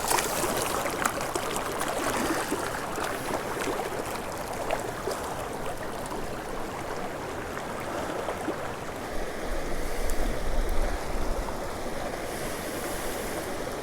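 Steady rush of mountain creek water running over rocks, with a brief low rumble partway through.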